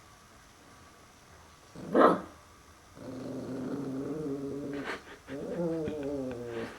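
Puppy barking once at his reflection in a mirror, then growling low and long in two stretches.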